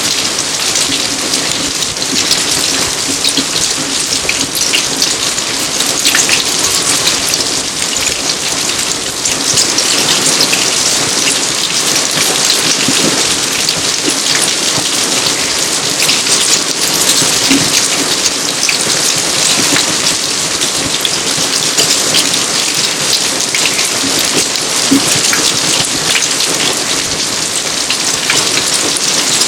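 Steady rain falling on garden surfaces: a dense, even patter of countless drops that keeps on without a break.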